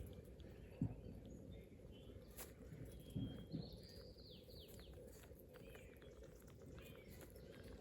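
Faint outdoor ambience with a few high, falling bird calls about three to four seconds in, and a few soft low thumps.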